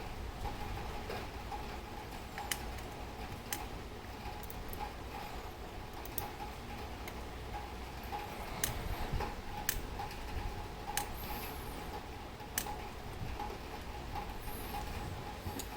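Mauthe grandfather clock movement ticking, with sharp ticks roughly once a second, some fainter than others, over a faint steady hum.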